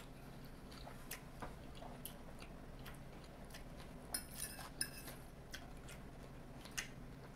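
Faint close-miked chewing of lo mein noodles, with scattered small mouth clicks. A metal fork clinks and rings against the plate a few times about four to five seconds in, with another click near the end.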